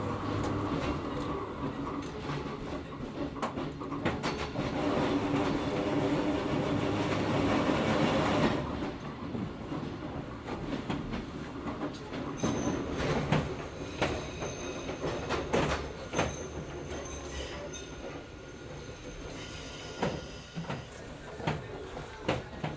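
Hakone Tozan Railway Moha 1 electric car with nose-suspended (tsurikake) traction motors, heard from inside the car. The motors and gears hum steadily under power, then the hum drops away about eight seconds in. After that the car rolls on with wheel clicks over rail joints and thin high wheel squeals.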